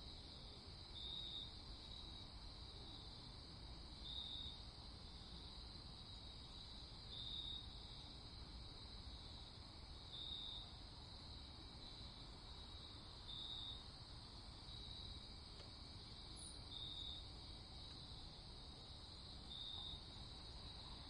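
Faint, steady chirping of crickets that swells a little about every three seconds, over a faint low rumble.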